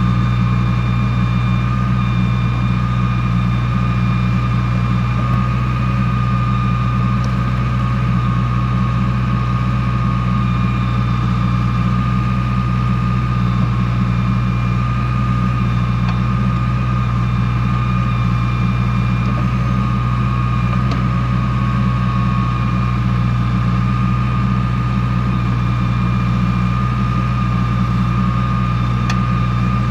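Heavy diesel engine idling steadily, with an even low rumble and a thin steady whine above it.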